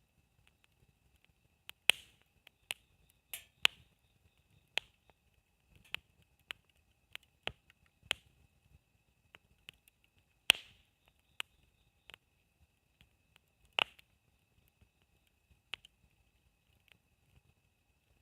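Wood campfire crackling, with irregular sharp pops and snaps about one or two a second, a few louder cracks about 2, 10 and 14 seconds in.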